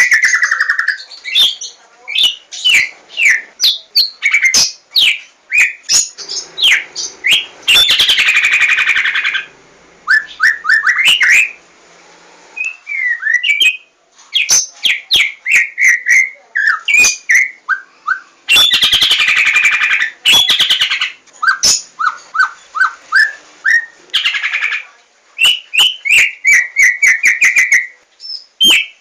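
White-rumped shama of the Javan 'larwo' form singing: a fast, varied run of loud whistled notes, quick falling glides and sharp clicks. Three times, near the start of the middle third, the middle and about five seconds before the end, the song breaks into a harsh, rasping chatter about a second and a half long.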